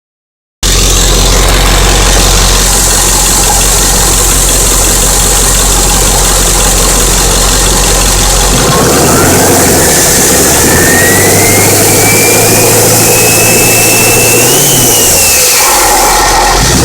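7.3-litre turbo diesel engine idling, then revved from about halfway. The turbocharger whistle climbs steadily in pitch as the engine speeds up, peaks and drops back shortly before the end, then begins climbing again at the very end.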